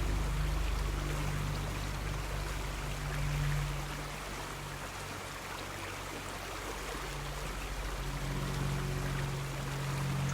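River water flowing steadily over stones. A low hum sits underneath, fading out around the middle and coming back near the end.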